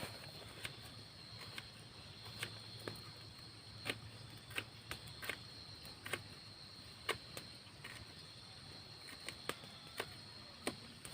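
Steady high insect chirring, with about fifteen sharp clicks and snaps scattered irregularly over it.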